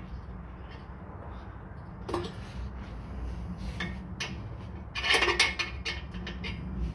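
Metal tools clinking against an exhaust clamp and pipe as the clamp on a rear exhaust box is tightened: a few separate clicks, then a quick run of clattering clicks about five seconds in, over a low steady hum.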